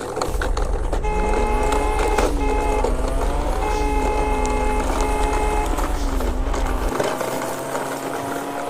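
Construction-vehicle sound effects: a low engine drone, a whine that rises about a second in and then holds, and stretches of steady electronic beeping like a reversing alarm. The drone drops away near the end while the whine carries on.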